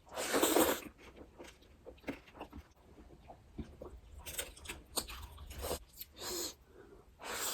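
Close-miked eating sounds: a person chewing and biting food, with many small uneven clicks and mouth noises. A short, louder rush of noise comes in the first second.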